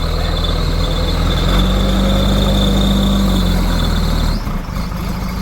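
Heavy diesel engine of farm or earthmoving machinery running steadily under light load. A high, thin, steady whine runs over it, and the level dips briefly about four and a half seconds in.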